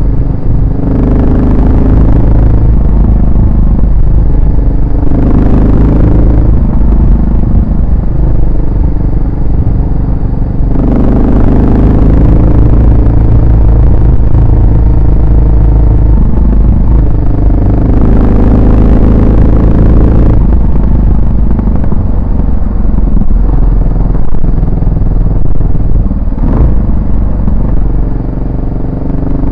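Yamaha SR400's air-cooled single-cylinder four-stroke engine running under a rider, its exhaust note rising in pitch several times as it accelerates and falling back between. A heavy low rumble runs underneath throughout.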